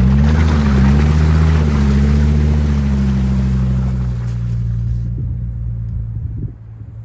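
Hummer H3 engine running under heavy throttle, its revs rising briefly about half a second in, with a loud rushing, splashing noise of tyres churning through icy puddle water and slush. The rushing fades after about four seconds and the engine eases off to a quieter run near the end.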